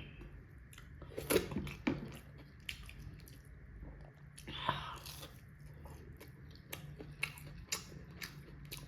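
Close-up chewing and mouth sounds of a person eating: soft wet smacks and scattered sharp clicks, with a few louder ones about a second and a half, two seconds and nearly five seconds in.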